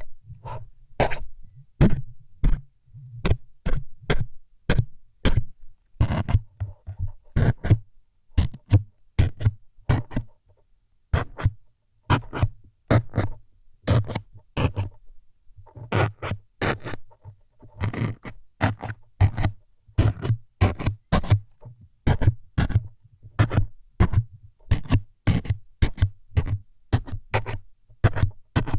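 ASMR needle-stabbing sounds, made close on the microphone: quick, sharp scraping jabs, about two a second in an uneven rhythm, each with a low thud beneath.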